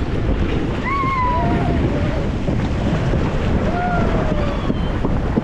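Water rushing under a raft on a water-park slide, with wind buffeting the microphone. A few faint shouts from riders rise and fall over it.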